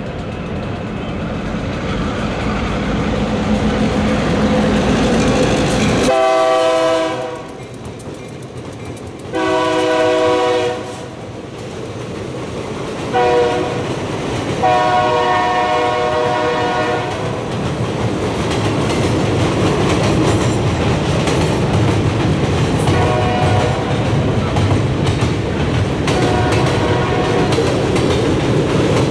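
Freight train approaching, then the locomotive's air horn sounds two long blasts, one short and one long, beginning about six seconds in: the grade-crossing signal. Afterwards the freight cars roll steadily across a steel girder bridge with rhythmic wheel clatter.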